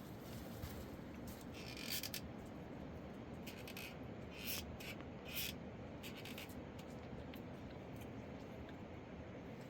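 Several short scraping sounds, a few seconds apart, over a steady low rumble.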